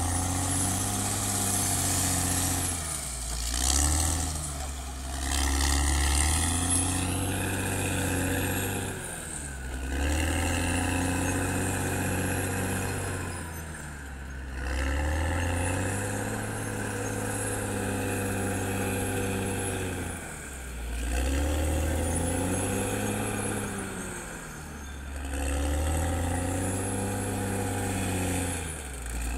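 Caterpillar D6R XL bulldozer's diesel engine working in repeated cycles, pulling hard and then easing off about every five seconds. A high whine rises and falls with each hard stretch.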